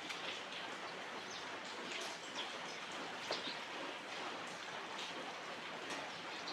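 Steady outdoor hiss with many faint short ticks and brief high chirps scattered irregularly through it.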